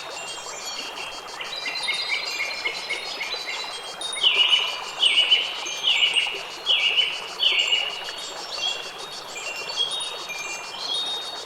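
Wind chimes tinkling: many short, overlapping ringing high notes over a steady background hiss. Near the middle comes a run of five louder notes, a little under a second apart.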